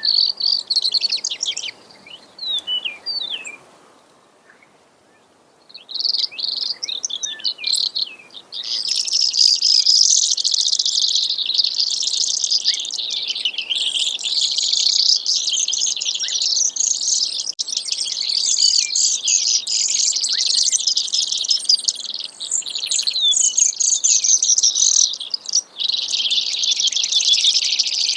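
Brewer's sparrow singing: a long, run-on song of high trills and buzzy rattles that shift in pitch and speed from phrase to phrase, with a short pause a few seconds in.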